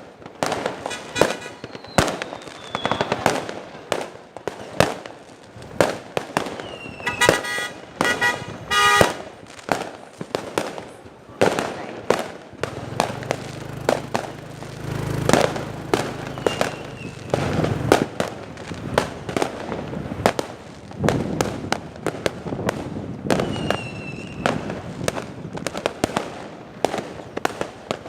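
New Year's Eve fireworks going off all around in a dense, unbroken run of overlapping bangs and crackles, some sharp and close, others deeper and rumbling. A few short falling whistles are heard among them.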